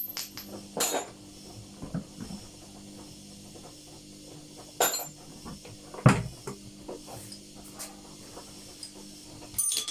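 A few sharp knocks and clatters of tools and parts being handled on a workbench, the loudest about six seconds in, over a steady low hum.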